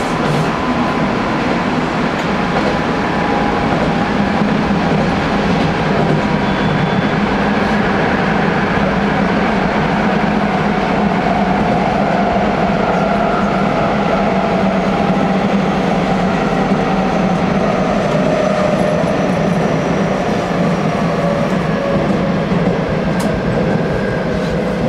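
Hanshin Railway electric train running steadily: a constant rumble of wheels on the rails with a faint whine that slowly drifts in pitch.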